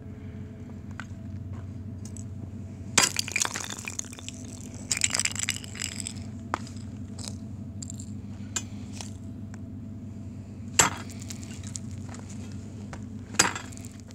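Ice crunching and breaking with glassy, tinkling clinks, in a few sharp bursts: one about three seconds in, a longer crackle about five seconds in, and two more near the end.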